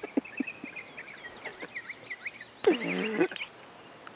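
Small birds chirping in quick, repeated short notes in the background. A brief, louder vocal sound about two and a half seconds in stands out.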